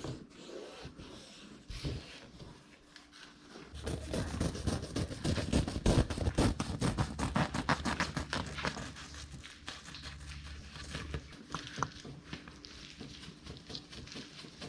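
Rapid scraping and rubbing of hands or tools working over headliner fabric and board, densest and loudest from about four to eleven seconds in, with a low hum under it over that stretch.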